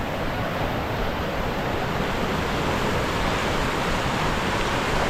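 Steady rush of whitewater rapids, an even roar of churning water.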